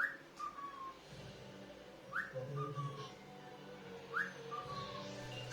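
Cockatiel whistling the same short phrase over and over, a quick rising note and then a longer, slightly falling one, about every two seconds.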